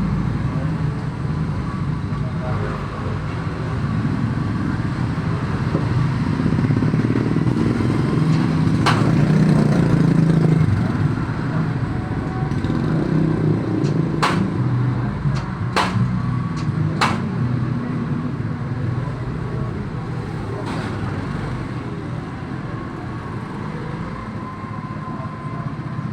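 Steady low vehicle rumble, with several sharp clicks or knocks scattered through the middle.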